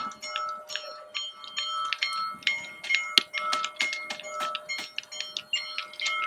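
Bell-like chiming: many quick metallic strikes, several a second, ringing at a few fixed pitches.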